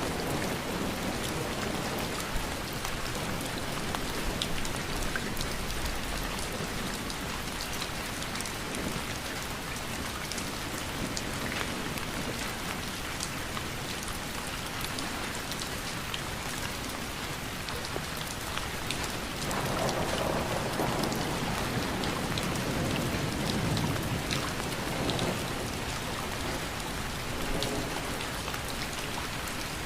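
Steady heavy rain falling, with individual drops ticking on surfaces close by. About two-thirds of the way through, a low rumble of distant thunder swells for several seconds and fades.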